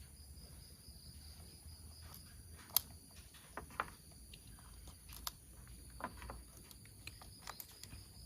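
Plastic toy train parts being handled and fitted together: scattered light clicks and taps at irregular intervals.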